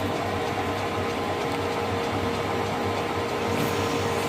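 Metalworking machine tool running steadily with an even motor hum and a held tone, between depth cuts with an end mill.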